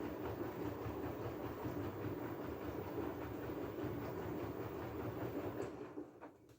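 LG F12A8ND front-loading washing machine running a wash cycle: a steady rumble with a churning rattle that stops about six seconds in.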